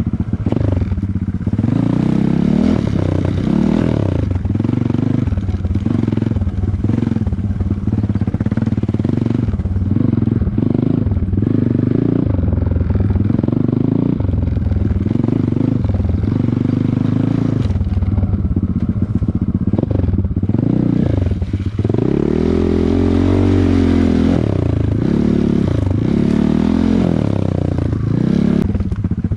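Off-road motorcycle engine being ridden, its pitch rising and falling every second or so as the throttle is opened and closed. Near the end the engine holds a higher, steadier pitch for a couple of seconds.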